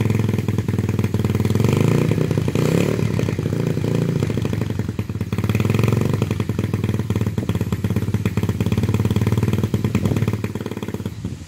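Apollo DB007 125cc single-cylinder four-stroke dirt bike engine idling just after its first start, still on choke. Its pitch rises briefly about two seconds in, and the sound drops away near the end.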